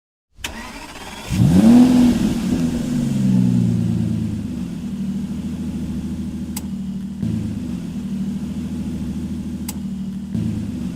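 Car engine starting: it catches with a rev that rises and falls about a second and a half in, then settles into a steady idle. A few faint clicks sound over the idle.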